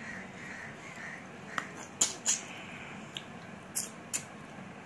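A person chewing a mouthful of rice with the mouth open: a handful of short, sharp wet smacks and clicks, the loudest about halfway through and again near the end.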